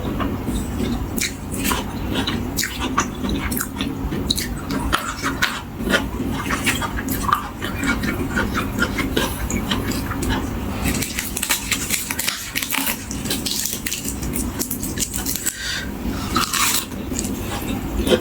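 Close-up eating sounds: steady chewing with many small irregular crunches of crisp raw vegetables and spicy salad, and cutlery clicking against a dish.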